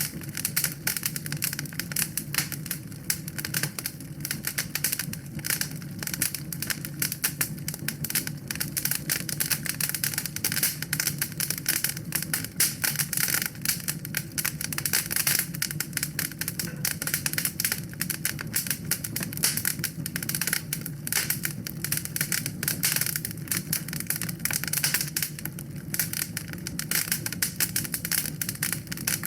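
Wood fire burning in a fireplace, crackling and popping constantly with many small irregular snaps over a low steady rumble of the flames.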